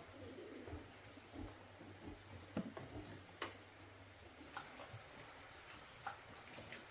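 A steady, high-pitched insect drone, with a few faint clicks and knocks scattered through it.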